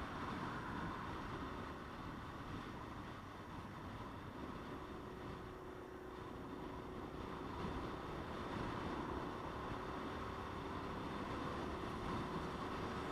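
Motorcycle running steadily on the road, its engine note faint under wind rush on the helmet or camera microphone.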